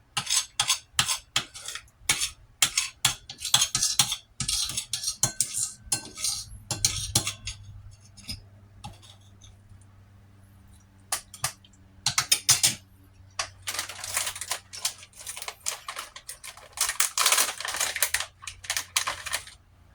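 Eating utensil clinking and scraping against a plate of rice in quick runs of strokes, stopping for a few seconds midway, then longer scrapes near the end.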